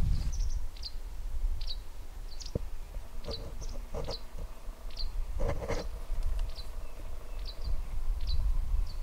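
A small bird gives short, high, falling chirps over and over, with a brief muffled sound with a few steady tones around the middle and low wind rumble on the microphone.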